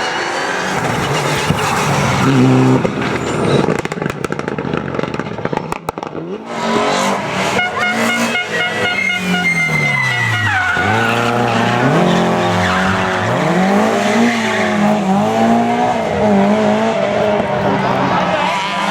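Rally car engines at racing revs on a stage. A car passes at full throttle in the first few seconds. From about six seconds in, another engine revs up and drops again about once a second through gear changes and braking, with a high whine over it for a couple of seconds.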